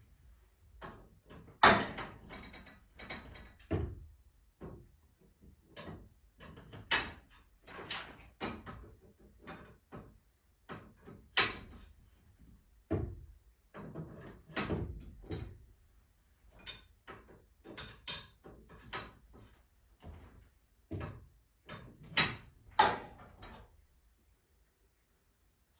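Irregular metallic clanks and knocks from hand work on garage door torsion spring hardware, a couple of them sharply louder than the rest.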